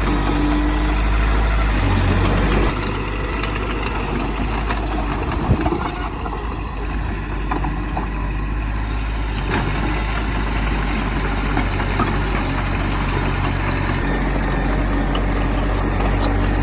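Heavy diesel engine of earthmoving machinery running steadily. It drops to a lower level about three seconds in, and there is a short knock a couple of seconds later.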